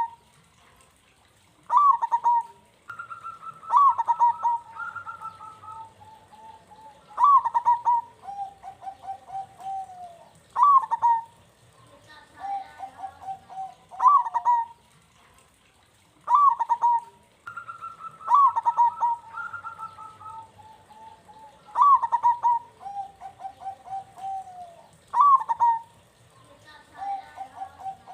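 Zebra dove (perkutut) cooing its song over and over. Each phrase is a run of soft clipped notes leading into one loud ringing note, repeated about every three and a half seconds.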